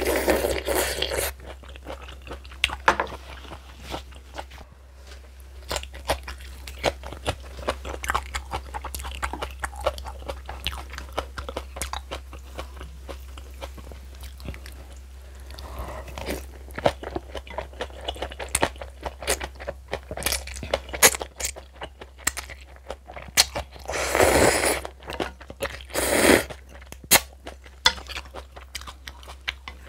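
A person crunching and chewing spicy kimchi with noodles: many short crisp crunches, with a few louder, longer bursts of eating noise near the start and twice near the end.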